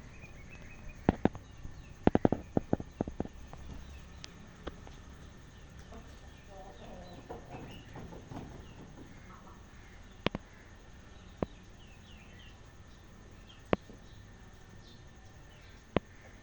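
Faint bird chirps in outdoor quiet, broken by sharp clicks or knocks: a quick run of about a dozen a couple of seconds in, then single ones every few seconds.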